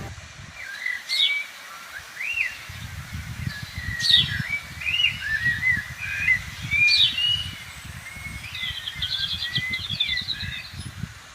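Birds singing: a varied song of short whistles and slurred glides, with a sharp falling whistle about every three seconds and a fast trill near the end. An irregular low rumble runs under the song for most of the time.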